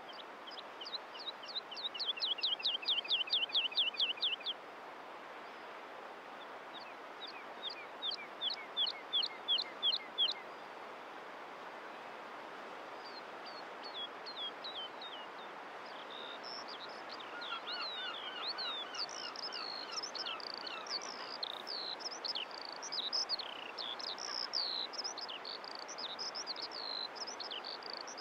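Birds chirping over a steady background hiss: two rapid trills of short, falling, high chirps in the first ten seconds, then from about halfway a busier run of varied, overlapping chirps and calls.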